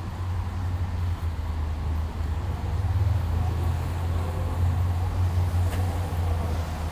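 Low, steady rumble of street traffic.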